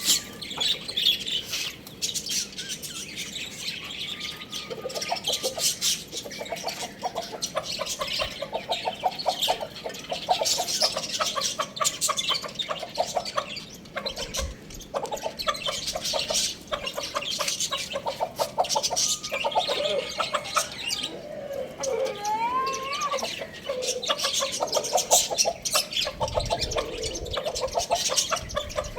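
Chickens clucking in rapid runs while small birds chirp continuously over them.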